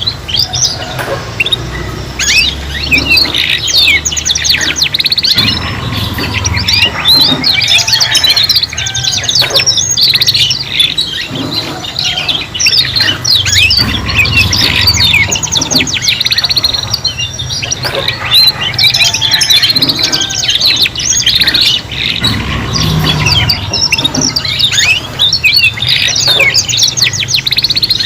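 Three young canaries singing together in a dense, continuous stream of rapid trills and chirps. This is the practice song of juvenile canaries learning to sing.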